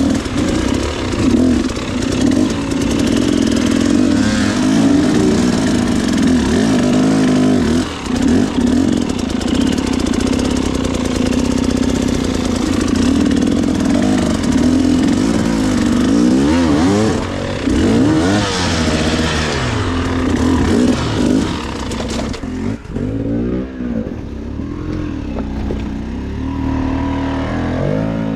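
Dirt bike engine being ridden on a trail, its pitch repeatedly rising and falling as the throttle is opened and closed and the rider shifts gears.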